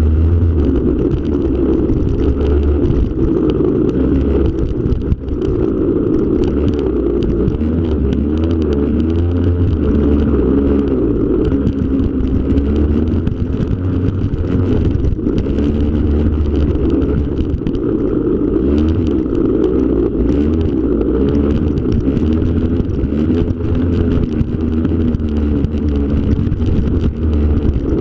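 Yamaha PW50's small two-stroke single-cylinder engine running under riding, its pitch rising and falling with the throttle.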